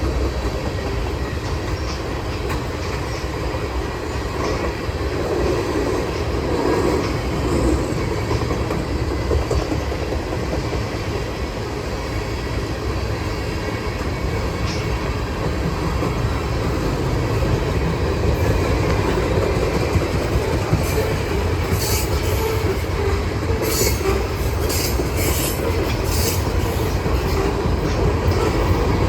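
Norfolk Southern freight train rolling past: a steady rumble and clatter of steel wheels on rail, with brief high wheel squeals several times in the second half.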